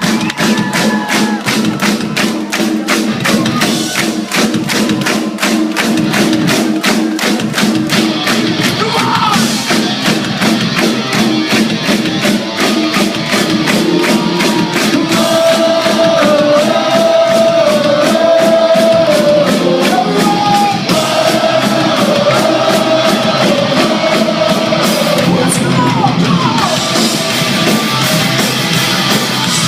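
Pop-punk band playing live and loud: a fast, steady drumbeat under distorted guitars, with a melodic lead line stepping up and down from about halfway through.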